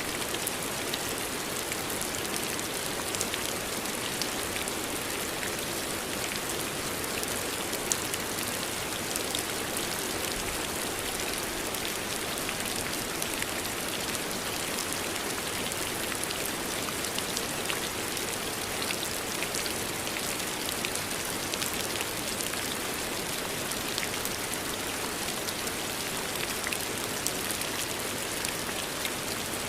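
Steady rain falling, with a dense scatter of small, sharp drop ticks over an even hiss.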